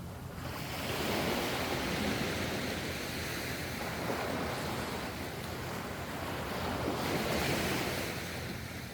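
Ocean surf: waves surging in a wash of noise, swelling about a second in, easing off, then swelling again near the end.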